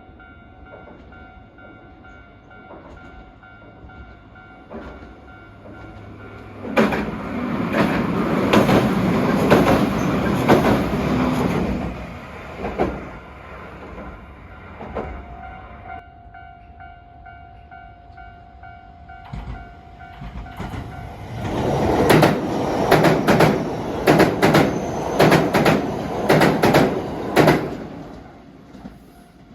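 Two trains pass one after the other, each rising to a loud rumble for several seconds and then fading. The second passage has a regular clatter of wheels over rail joints.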